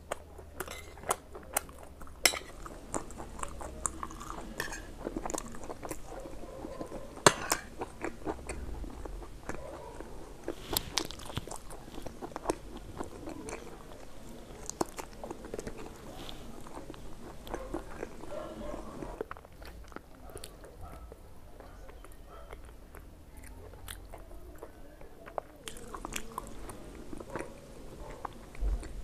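Close-up eating sounds: a person chewing mouthfuls of puri with chickpea curry and fish curry, with many short sharp clicks and mouth smacks scattered through. It goes quieter for several seconds a little past the middle.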